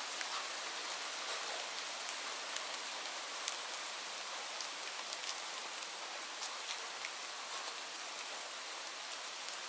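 Steady rain falling on leaves: an even hiss with many separate drops ticking on top.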